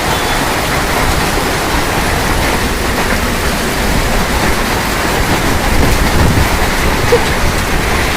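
Heavy downpour with hail falling, a loud, steady rush.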